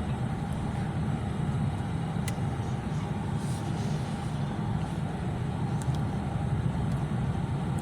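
Steady low rumble of a motor vehicle, running evenly without change.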